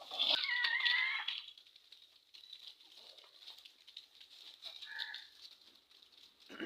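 A chicken's wavering call lasting about a second at the start, followed by faint short clucks and rustling.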